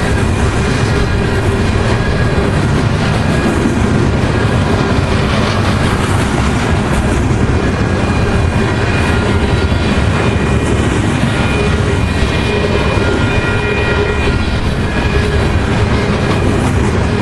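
Canadian Pacific freight train's cars rolling past, a steady loud rumble of steel wheels on rail with clickety-clack over the rail joints and faint steady ringing tones.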